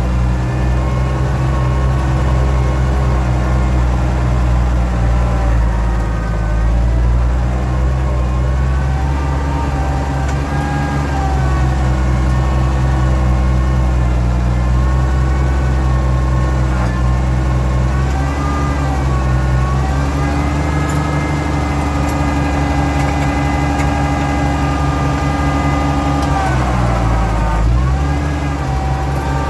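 Oliver 1650 tractor engine running steadily while the front loader is worked, with a hydraulic whine above it that rises and falls in pitch. The hydraulics whine from the cold (below 30 degrees) and from being a little low on hydraulic oil. Near the end the engine pitch briefly dips, as under load.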